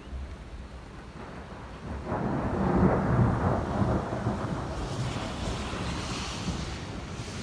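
Thunder rumbling in about two seconds in, loudest around three seconds and slowly dying away, over steady rain.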